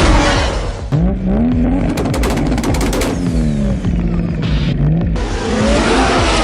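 Car engine sound effect revving, its pitch rising and then falling, over a steady rushing noise.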